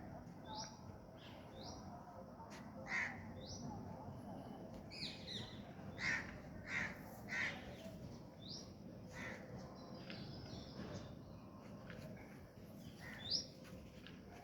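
Birds calling: a short high chirp repeated over and over, with several louder, harsher calls at intervals, most of them bunched in the middle and one more near the end.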